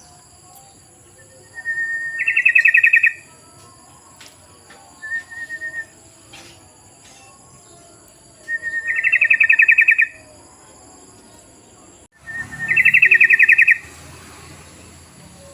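Yellow-vented bulbul calling: three loud phrases a few seconds apart, each a short note running into a rapid, bubbling trill about a second long, with a short, fainter phrase between the first two. These are the chattering calls used as a lure for the species.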